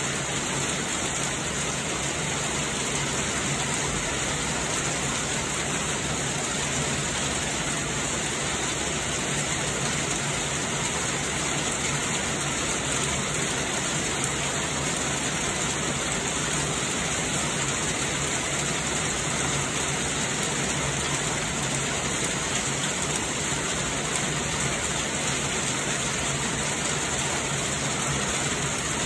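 Heavy rain pouring down steadily, a constant hiss with no let-up.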